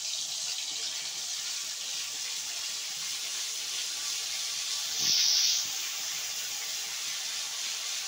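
Ginger-garlic paste sizzling in hot oil in a kadhai while it is stirred with a metal spoon: a steady sizzle, with a louder burst of hiss lasting about half a second around five seconds in.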